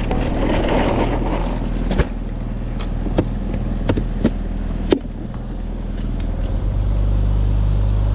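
Mercury 9.9 hp outboard motor running at idle, with several sharp knocks and clicks in the boat, then running louder and steadier from about six seconds in.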